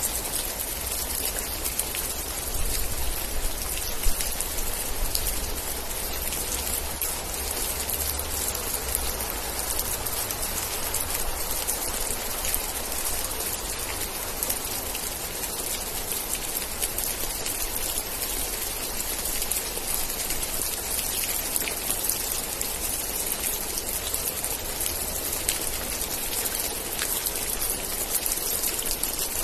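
Steady heavy rain, a dense patter of drops on surfaces. A low rumble sits under it for the first ten seconds or so, then fades, and one sharper drop stands out about four seconds in.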